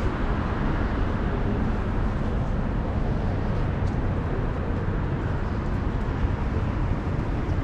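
Steady city street traffic noise, an even low rumble of passing vehicles without any single standout event.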